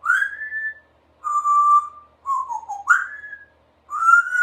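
Congo African grey parrot whistling a series of five short clear notes, most sliding up or held level, one gliding down near the middle.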